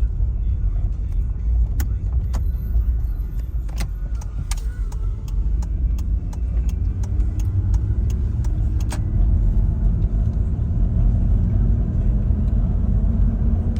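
Toyota 4Runner on the move, heard from inside the cabin: a steady low rumble of engine and road noise. A run of sharp clicks comes in the first nine seconds or so, and the engine pitch rises gently in the second half as it picks up speed.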